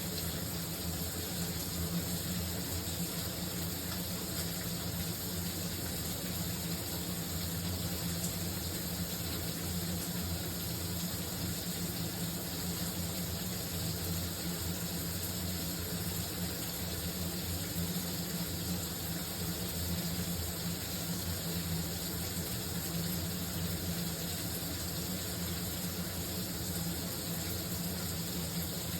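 Shower running: a steady spray of water, unchanging throughout.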